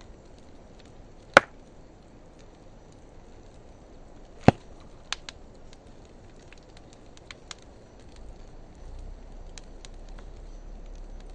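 Wood fire of driftwood and dry hardwood logs crackling: two loud sharp pops a few seconds apart, then a scatter of smaller snaps and faint ticks over a steady low hiss.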